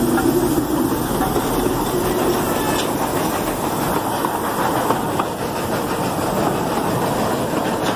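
Narrow gauge 4-4-0 American-type steam locomotive rolling past close by, followed by its tender and open passenger cars: a steady rumble with the clatter of wheels over the rails.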